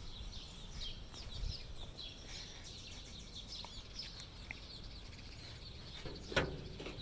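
Faint birds chirping over low outdoor background noise, with one short, louder sound about six seconds in as the truck's door handle is grabbed.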